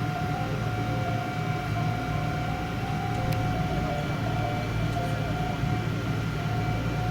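Steady running noise of a vehicle: a constant low hum with a thin, steady whine over it.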